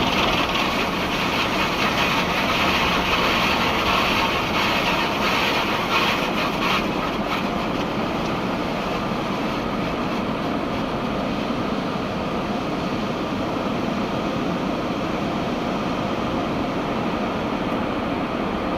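An automatic tunnel car wash working over a car, heard from inside the closed cabin: a steady rushing and rumbling of the wash equipment, a little brighter during the first several seconds.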